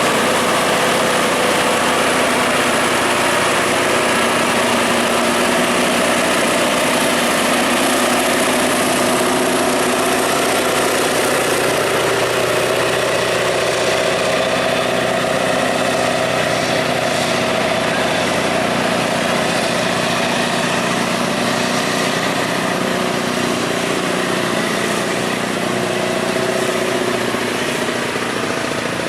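Heavy truck engine running steadily, a constant loud drone with an unchanging pitch.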